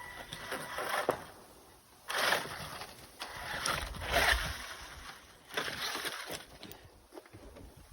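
Small RC crawler truck (WLtoys 12428) driven in short bursts, its electric drive whirring and its tyres scrabbling and crunching against tree bark as it tries to climb onto a tree. There are four spurts of effort, with short pauses between them.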